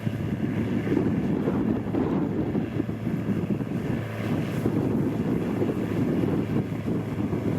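Heavy diesel construction machinery running steadily at a work site, a continuous low engine noise with a steady hum.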